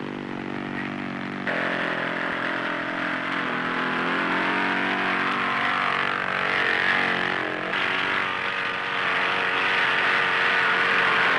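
Piston engine of a small propeller aircraft droning steadily as it takes off and flies. The tone of the drone changes abruptly about a second and a half in and again near eight seconds.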